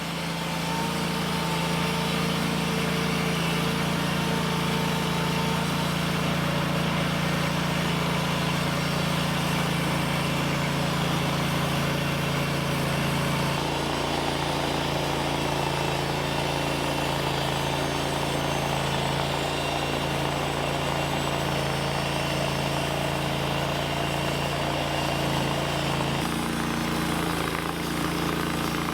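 Sawmill engine running steadily, its tone shifting about halfway through and again near the end.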